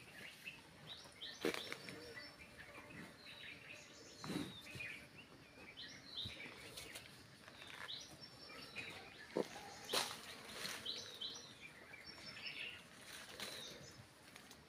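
Small birds chirping in many short, high calls, with a few sharp knocks standing out above them, the loudest about ten seconds in.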